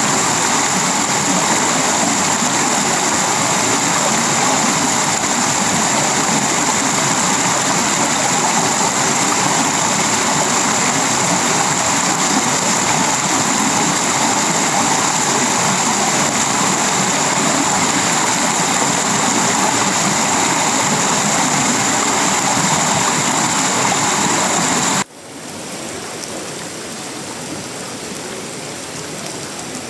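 Heavy tropical rain falling on a corrugated metal roof, wood and leaves, a dense steady hiss. About 25 seconds in it drops suddenly to a quieter, lighter rain.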